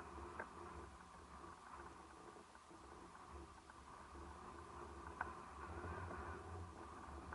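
Faint sea surf washing on the shore, with a few soft clicks, the clearest about half a second and five seconds in.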